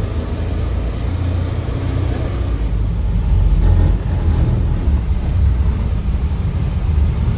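Engine of a Hägglunds tracked all-terrain vehicle running as it drives, a steady low drone.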